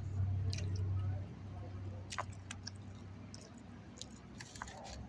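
Close-up chewing of chicken salad: wet, squishy mouth sounds with small scattered clicks.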